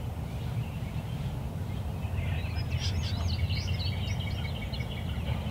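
A bird chirping: a run of quick, high, repeated notes about two seconds in, lasting a few seconds, over a steady low rumble of wind noise.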